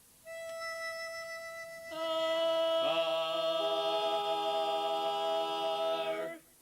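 Barbershop quartet giving the opening: one steady note sounds alone, then more voices join about two and three seconds in to build a held close-harmony chord, which cuts off cleanly shortly before the end.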